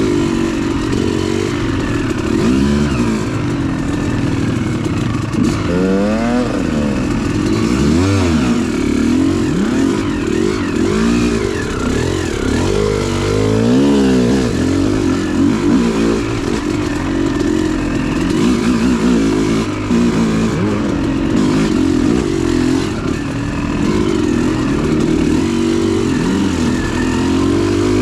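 Dirt bike engine revving up and down as it is ridden, its pitch rising and falling again and again with throttle and gear changes.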